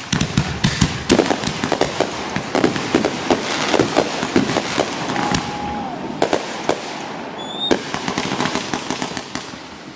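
Aerial fireworks going off in a dense barrage: many sharp bangs and cracks in quick succession, with crackling between them.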